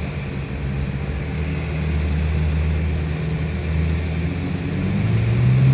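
Heavy demolition machinery's diesel engine running steadily, then revving up near the end with a rise in pitch.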